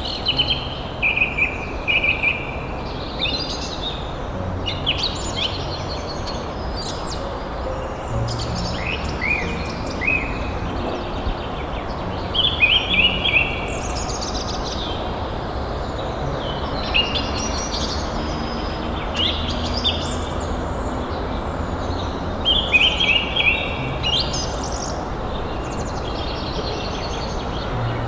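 Songbirds singing outdoors, with repeated short chirping and trilling phrases throughout, over a steady background hiss.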